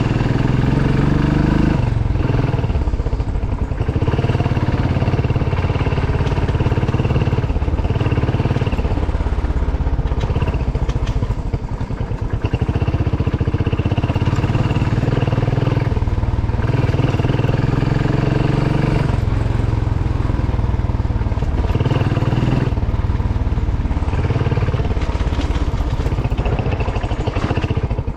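Motorcycle engine running under way, its note rising and dropping again several times as the throttle and gears change.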